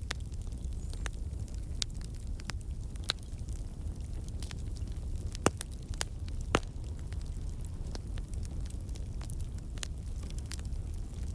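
Campfire burning logs, crackling with scattered sharp snaps over a steady low rumble of the flames. Two louder pops come about halfway through.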